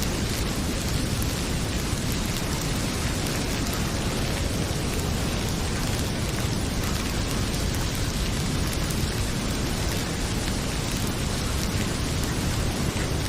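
Heavy rain pouring steadily, with faint scattered crackles and pops of a wood fire mixed in.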